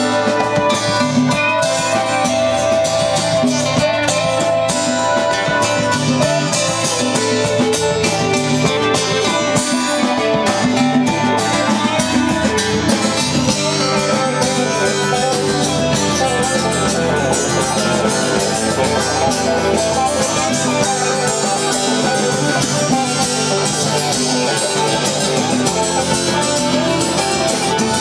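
Live band playing an instrumental jam: guitars over steady percussion, with no singing.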